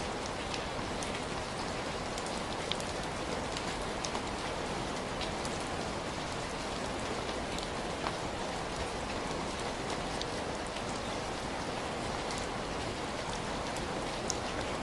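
Heavy rain falling steadily, an even rushing hiss with scattered sharp drop ticks.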